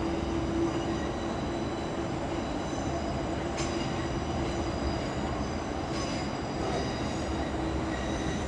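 Passenger train moving slowly along the platform tracks, a steady rumble with a low hum and several thin, steady high-pitched tones from the train. Two sharp clicks come about three and a half and six seconds in.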